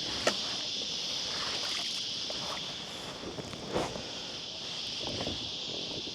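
Steady high-pitched drone of a cicada chorus, with a few light knocks and rustles of handling on the kayak; the loudest knock comes a little under four seconds in.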